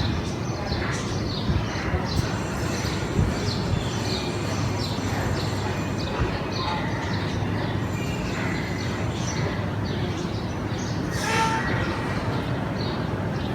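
Many small birds chirping over and over in short, high, falling notes, over a steady low rumble. About eleven seconds in, one louder, briefer pitched call cuts through.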